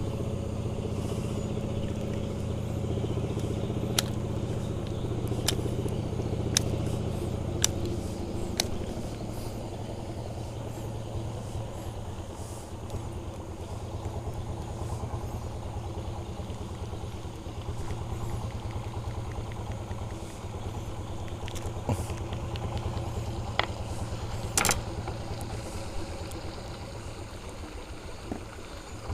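A motor engine runs at a steady drone, with a few sharp clicks over it.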